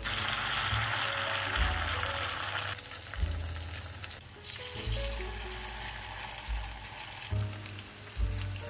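Potato and zucchini fritters sizzling in shallow olive oil in a frying pan. The sizzle is loudest for about the first three seconds, then goes on more softly, over light background music.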